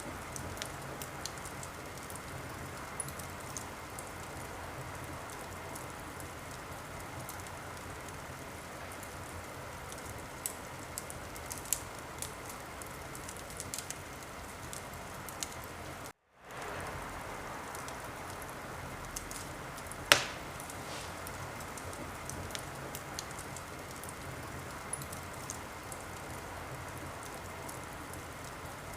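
Wood fire crackling in a fireplace: a steady hiss with scattered small pops and one loud pop about twenty seconds in. The sound cuts out completely for a moment about sixteen seconds in.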